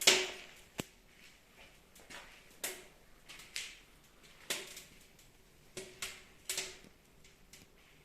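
Wood fire crackling in a stone fireplace: irregular sharp pops, about seven in all, the loudest right at the start.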